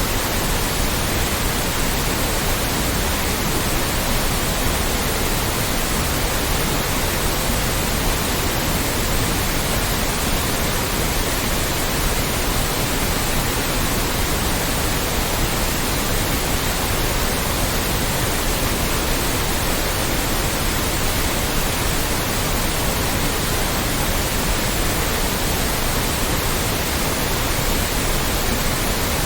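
Loud, steady white noise: an even hiss spread across all pitches, unchanging throughout.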